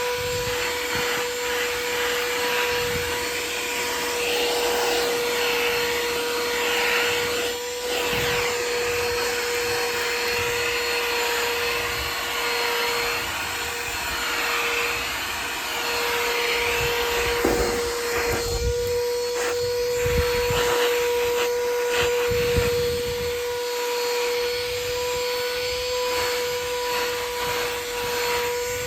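XREXS cordless handheld vacuum running steadily: a constant motor whine over rushing air, the pitch wavering briefly around the middle. Scattered knocks and rattles in the second half as the nozzle picks up small pebbles and bumps against surfaces.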